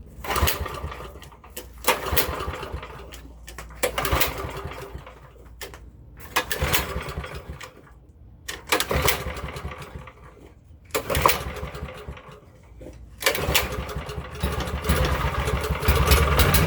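Pressure washer's small gasoline engine being cranked over again and again, about seven start attempts roughly two seconds apart, each a brief sputtering burst. Near the end it catches and keeps running, getting louder.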